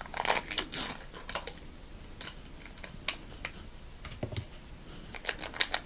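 Scattered light clicks and taps with short rustles, from plastic dipping-sauce containers being handled close to the microphone.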